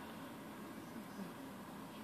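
Quiet room tone: a faint, even hiss with no distinct sound.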